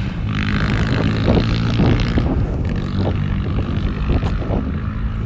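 A 1983 Honda XR200R's air-cooled single-cylinder four-stroke engine running steadily through a stainless CRF230F aftermarket slip-on exhaust.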